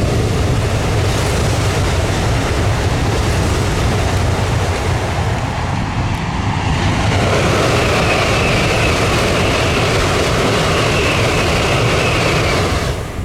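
Tokaido Shinkansen train rushing past at speed close to the track: a loud, steady roar of wheel, rail and air noise. About halfway through, a high whine joins the rush.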